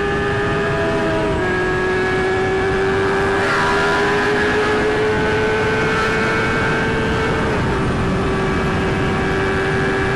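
Yamaha R6 sport bike's engine running at steady high revs while riding. The pitch holds nearly level, with two small drops, under a constant rush of wind and road noise.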